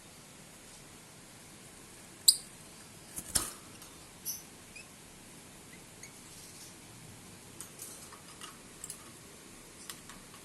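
A small bird giving scattered short, high chirps, the loudest about two seconds in, with a sharp click about a second later and a few light ticks.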